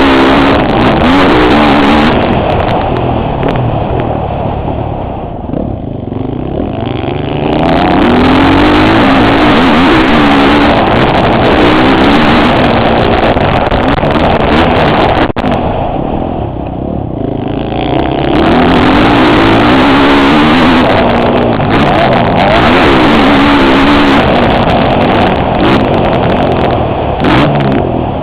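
Motocross bike engine heard from the rider's helmet, revving hard with pitch climbing and dropping through the gears. The throttle eases off twice, about five seconds in and again around sixteen seconds, before the engine opens up again.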